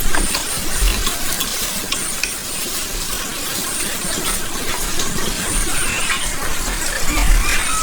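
Steady hiss and crackle of food cooking over heat, with scattered small pops. A brief high whistle-like tone comes in near the end.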